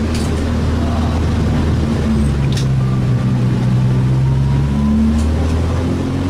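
Renault Clio 2 RS MiniCup's 2-litre four-cylinder engine heard from inside the stripped race cabin, running steadily under load with the revs rising for a couple of seconds midway and changing again near the end, over a steady wash of tyre noise. A few faint ticks come about two and a half seconds apart.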